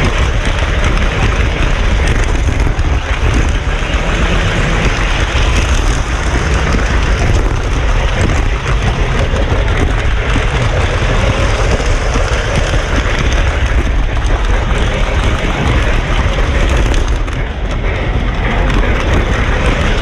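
Model train running along its track: a steady, loud rumble with noise spread across the range and no break.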